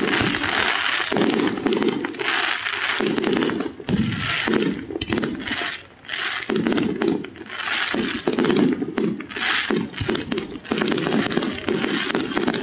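Aerial fireworks going off in a display, many bursts in quick succession, with short lulls about four and six seconds in.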